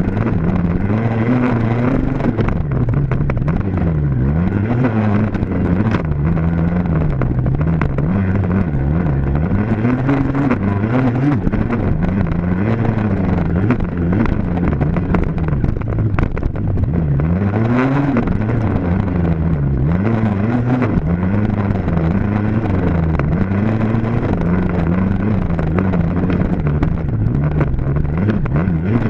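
Dirt bike engine running hard throughout, its pitch rising and falling over and over as the throttle is opened and shut, with one bigger rise and drop about two thirds of the way through.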